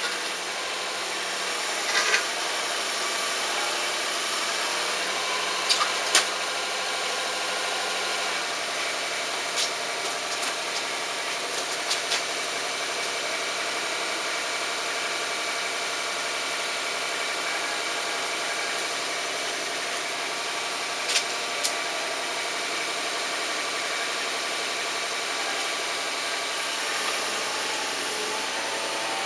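An engine running steadily, its pitch dropping about eight seconds in, with a few short knocks and clacks over it.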